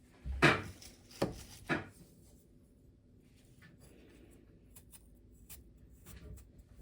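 Kitchen knife chopping on a wooden cutting board: three sharp cuts in the first two seconds, then a few faint light taps.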